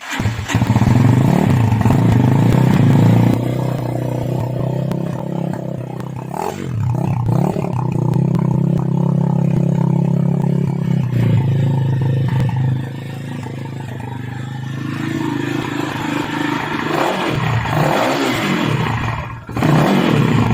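Honda CRF replica trail motorcycle's engine running for a sound test, revved up and let back down: held at higher revs for the first few seconds, again for several seconds in the middle, then blipped a few times near the end.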